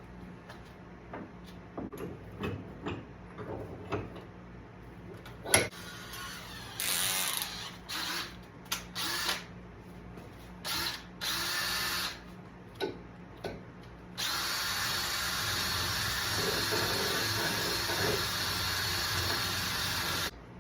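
Power tool, most likely a drill, cleaning rust off threads. It runs in several short bursts, then one steady run of about six seconds that cuts off suddenly. Before that there are scattered handling clicks and one sharp knock.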